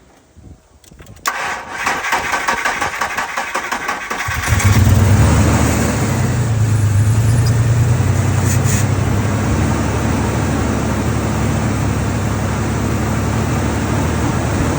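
1999 Ford F-150 engine cranking on the starter for about three seconds, then catching about four seconds in, revving briefly and settling into a steady idle. The start shows that the newly replaced battery terminal is making good contact.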